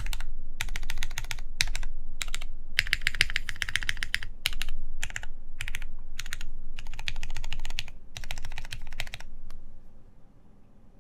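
Fast typing on a plateless mechanical keyboard with lubed Cherry MX Black linear switches and PBT keycaps, in quick bursts of keystrokes with short pauses, stopping near the end.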